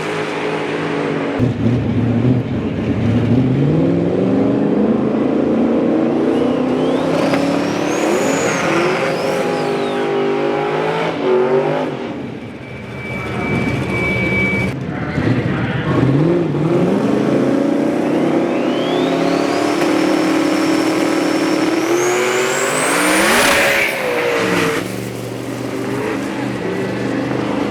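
Drag racing cars launching and accelerating hard down the strip. The engine pitch climbs in steps, as if through gear changes, in two runs, the first for about ten seconds and the second from about 16 s to 24 s, each with a thin rising whine above it.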